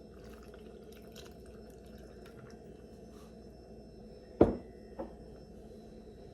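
Light handling sounds over a steady background hum, then a sharp knock about four and a half seconds in and a softer knock half a second later, as of jars or a bottle being handled and set down on a kitchen counter.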